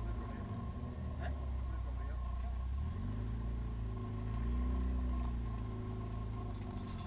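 Eagle Talon's four-cylinder engine heard from inside the cabin while the car is driven: a low drone whose pitch rises and falls with the revs, loudest about halfway through.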